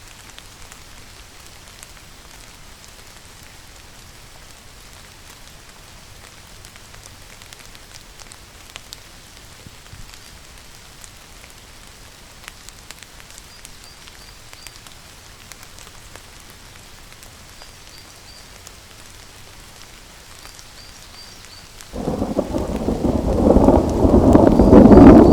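Steady rain falling, with faint high chirps now and then. Near the end a loud thunderclap breaks in suddenly and rumbles on.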